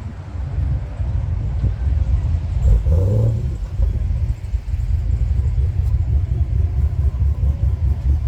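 A muscle car's engine idling with a low, uneven pulse, given one short rev about three seconds in.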